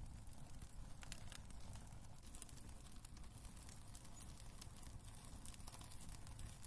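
Wood fire burning in a fireplace: quiet, irregular crackles and pops over a steady low rumble.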